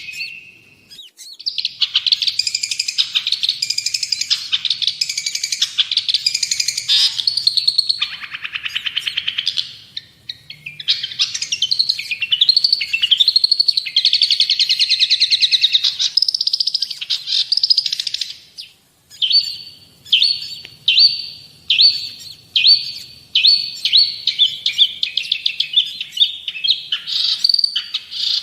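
Long-tailed shrike (cendet) singing a loud, fast, varied chattering song of rapid high phrases. About two-thirds of the way through it changes to a series of short repeated notes, roughly one a second.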